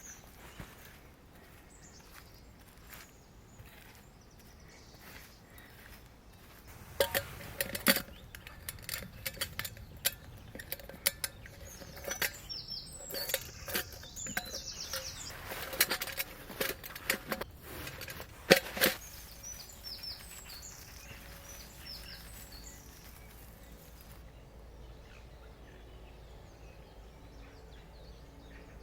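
Clinks and knocks of camp gear being handled, a loose run of sharp strikes that comes and goes over about twelve seconds, with small birds chirping.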